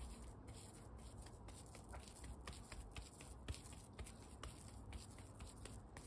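Faint rustling and light clicks of hands rolling crumbly okara and rice-flour dough into balls.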